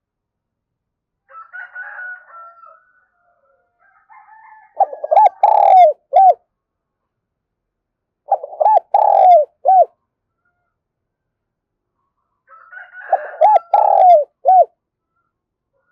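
Spotted dove cooing in three loud phrases of several short coos each, a few seconds apart. Fainter, higher sounds come before the first and last phrases.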